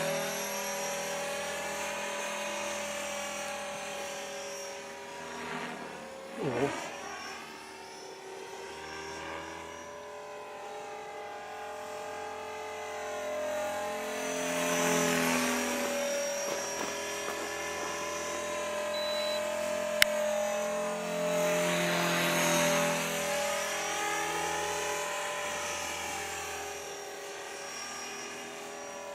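E-flite Blade 400 electric RC helicopter in flight: the steady whine of its electric motor and rotor, swelling and fading as it moves nearer and farther. A brief rustle comes about six seconds in and a single sharp click near two-thirds of the way through.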